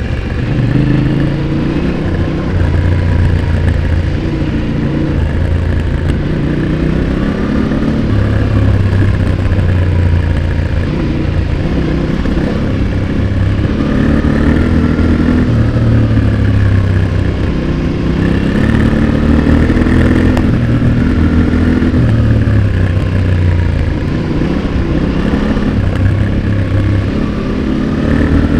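Exhaust of a Yamaha Ténéré 700's 689 cc CP2 parallel-twin, close-miked at the muffler, under hard riding. The engine note climbs and falls again and again as the throttle is opened and closed and gears change.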